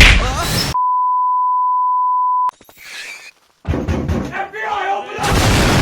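A loud hit, then a steady high-pitched censor bleep held for nearly two seconds and cut off abruptly. After a short silence come cartoon voices and sound effects, and a loud noisy rush starts near the end.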